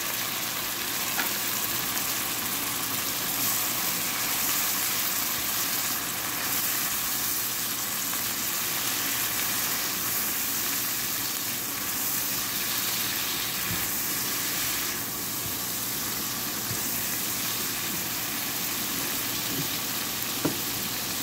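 Curry sauce with shrimp, onions and chilies sizzling steadily in a hot wok while a slotted spatula stirs it, with an occasional faint tap.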